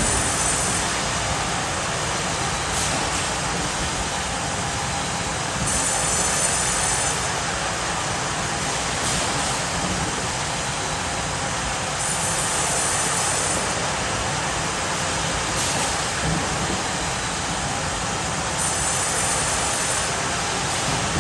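Sawmill machinery running with a steady mechanical noise and a repeating cycle. About every six and a half seconds a high hiss lasts a second and a half, and a short sharp click falls midway between them.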